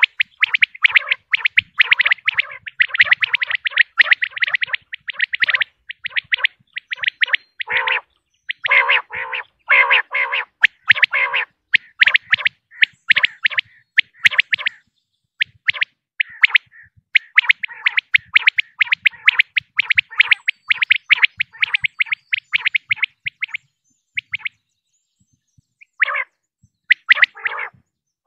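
Recorded calls of a female common quail: rapid runs of short, high chirping notes, broken by a few lower, harsher calls about a third of the way in and again near the end, with a brief pause shortly before the end.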